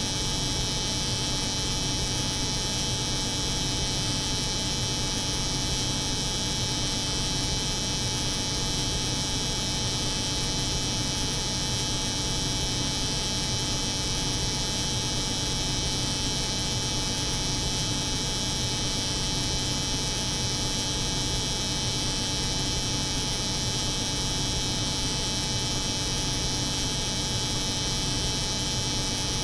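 Electric hair clipper buzzing, layered over the hum of a cold room's refrigeration unit. Together they make one steady, unchanging drone with a low hum and a bright hiss.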